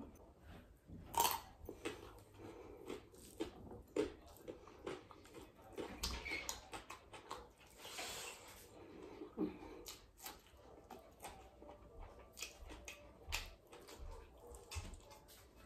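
Close-miked eating: a person chewing mouthfuls of rice and chicken curry, with many irregular wet mouth clicks and smacks. There is a longer, denser stretch of mouth noise about six to eight seconds in.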